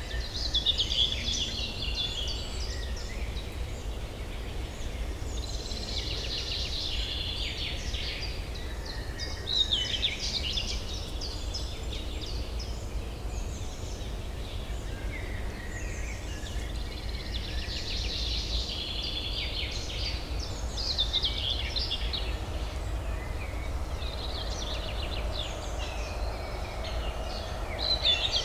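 Songbirds singing phrases of rapid chattering notes every few seconds, over a steady low hum of distant city traffic.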